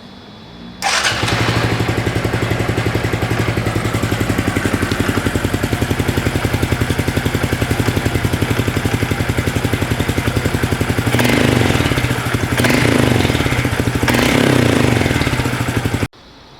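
Honda CT125's single-cylinder engine starting about a second in and idling with a steady beat, then revved briefly three times near the end before the sound cuts off suddenly.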